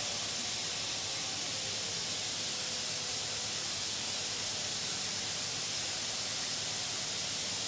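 Steady hiss, brightest in the upper range, with nothing else standing out.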